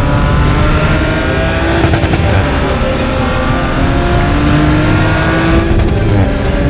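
Audi RS 5 Coupe's twin-turbo V6 accelerating hard, its engine note rising in long pulls as it climbs through the gears, with breaks about two seconds in and again near the end.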